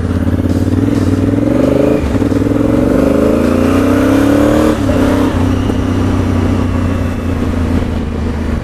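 Motorcycle engine pulling away and accelerating. Its note rises, drops at gear changes about two and five seconds in, then holds steady as the bike cruises.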